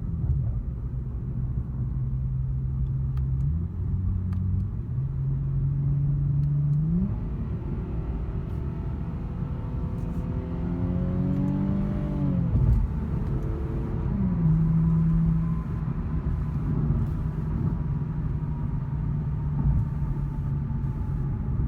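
Exhaust of a 2017 Infiniti Q60 Red Sport 400's 3.0-litre twin-turbo V6, running through a sport exhaust with no mufflers. Its pitch steps up and rises about 7 seconds in, drops sharply around 12 seconds in, then settles to a steady drone.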